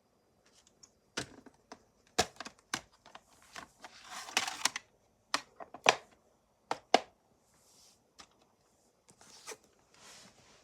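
A VHS cassette and its plastic case being handled: a string of sharp plastic clicks and knocks, with a scraping rustle about a third of the way through.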